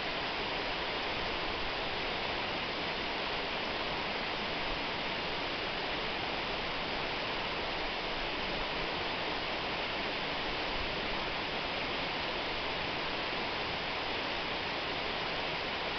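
Waterfall pouring: a steady, even rush of falling water with no breaks or separate splashes.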